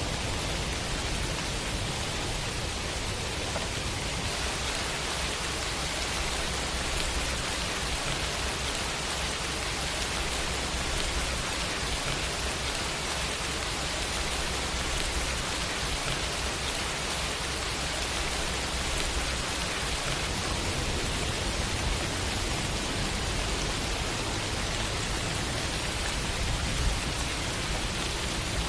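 Steady rain falling, an even hiss that holds at the same level throughout, with a low rumble underneath.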